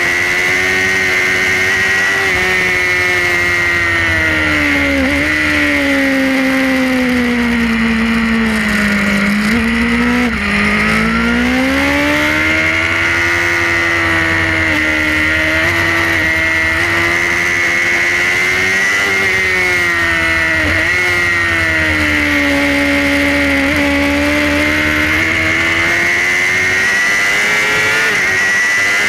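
Suzuki GSX-R's inline-four engine at racing revs, heard onboard: its pitch sags under braking, bottoming out about a third of the way through, then climbs back as the bike accelerates, with a few sharp jogs in pitch at gear changes. A steady rush of wind noise runs underneath.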